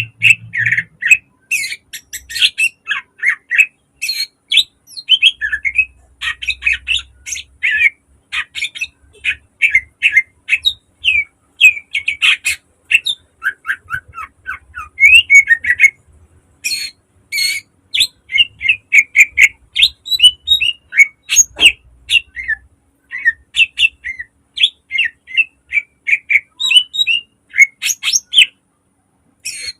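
Cucak ijo (green leafbird) singing a fast, unbroken stream of sharp chirps and short sweeping whistled notes, the rapid 'gacor' song with mimicked phrases ('isian') that keepers play to train other birds.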